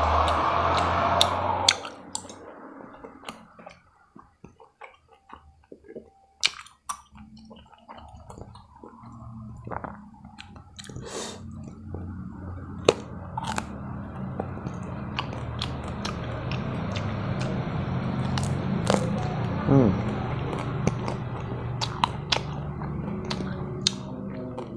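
Close-up mouth sounds of eating tteokbokki and raw vegetables: chewing with many sharp, crisp crunches and bites scattered throughout. A steady low hum comes up in the background about halfway through.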